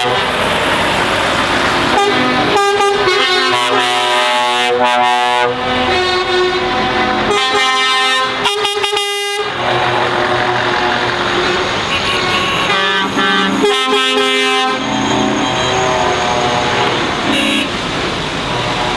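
Lorries driving past with engines running, sounding multi-note air horns in three long blasts: one from about two to five seconds in, another around eight to nine seconds, and a shorter one near fourteen seconds.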